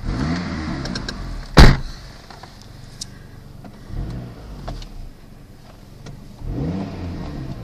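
Pontiac Sunfire engine revved in three short blips, each rising and falling back, heard from inside the cabin. One loud sharp thump comes about one and a half seconds in.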